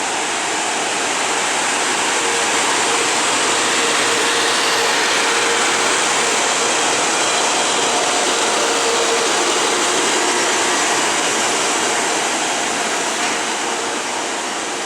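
A train running past on the tracks: a steady rush of wheel and rail noise that swells a little toward the middle and eases off near the end.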